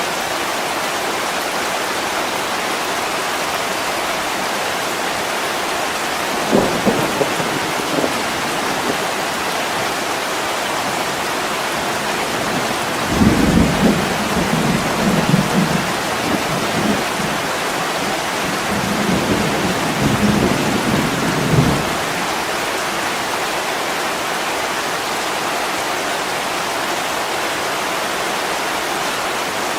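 Heavy rain pouring steadily on a window pane, with a few brief cracks about seven seconds in, then a long rolling rumble of thunder from about thirteen to twenty-two seconds in.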